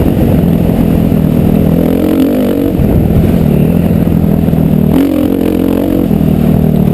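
Motocross bike engine under load, its pitch rising and falling as the throttle opens and closes, with a drop in revs about two and a half seconds in and again about five seconds in.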